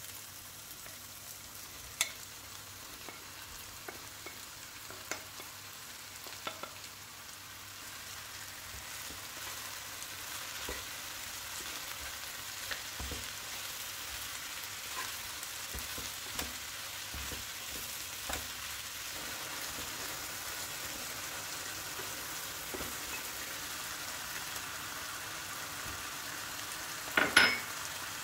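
Chopped mushrooms, peppers and onion sizzling in oil in a nonstick pot while a wooden spatula stirs them, knocking against the pan now and then. The sizzle gets a little stronger after the first several seconds, and a louder clatter comes near the end.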